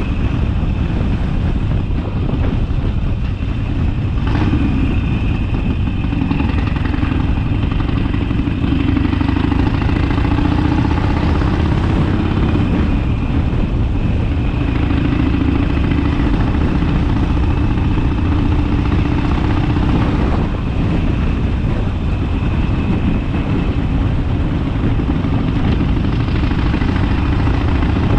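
Harley-Davidson Sportster's V-twin engine running while riding, its pitch rising and falling several times with speed, over a heavy rush of wind on the microphone.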